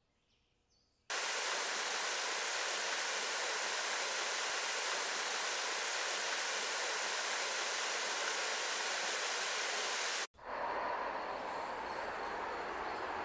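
A steady, even rushing noise that starts abruptly about a second in and cuts off sharply about ten seconds in, replaced by a similar but slightly different steady rushing noise. Faint high bird chirps come just before the rushing starts and again near the end.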